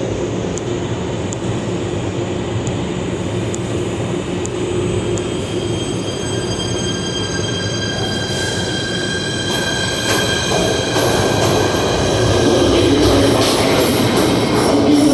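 PATH subway train running through the station, its wheels squealing in several high, steady tones from about six seconds in, growing louder toward the end.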